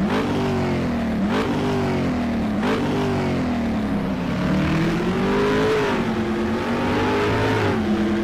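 Motorcycle engine revving, its pitch dipping sharply and climbing back twice in the first three seconds, then rising and falling more slowly.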